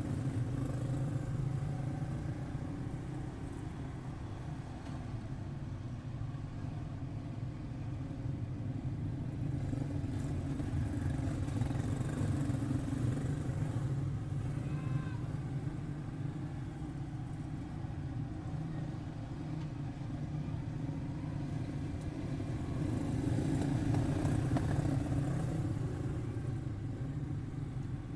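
A pack of Junior Animal quarter midget race cars, each with a small single-cylinder Briggs & Stratton engine, running laps in a steady drone that swells louder about twelve seconds in and again near the end as they pass.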